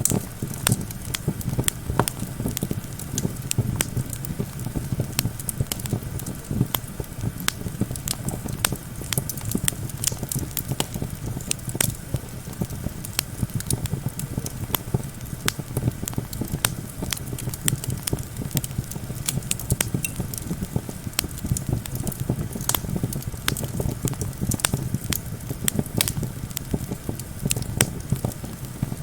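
Campfire crackling, with frequent sharp, irregular pops over a steady low rumble of wind.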